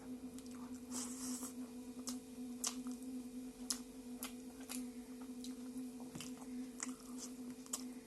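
A person eating a meal of rice, greens and buffalo meat up close to the microphone: wet chewing and irregular mouth clicks and smacks. A steady low hum runs underneath.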